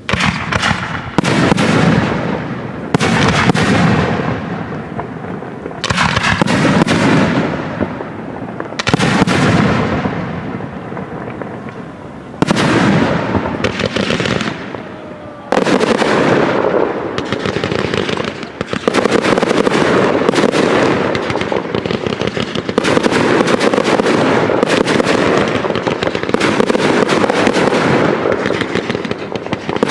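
Professional aerial fireworks display: shells bursting one after another every second or two, each followed by a fading crackle. About halfway through it turns into a dense, continuous barrage of crackling and bangs.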